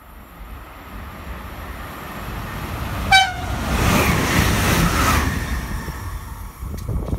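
SNCF Regiolis bimode multiple unit (B 81500 series) approaching and running through the station. It gives a short horn blast about three seconds in, then passes close by with a loud rush of wheel and air noise that fades as it moves away.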